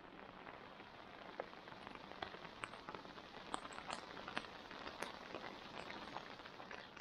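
Rain falling at night: a steady hiss with scattered sharper ticks of single drops.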